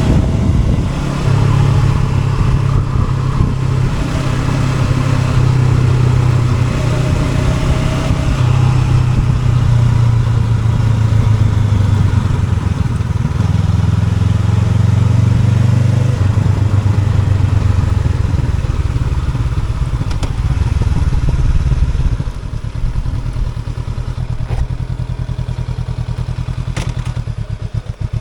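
Honda NX500 parallel-twin engine running under way, with road and wind noise. About 22 s in the throttle eases off and the engine drops to a quieter, pulsing note.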